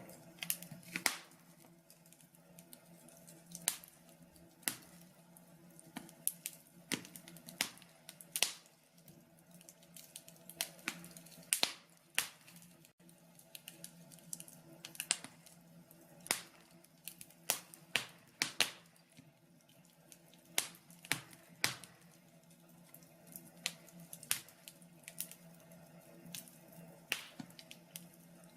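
Wood fire in a log burner crackling, with irregular sharp pops and snaps over a faint steady low hum.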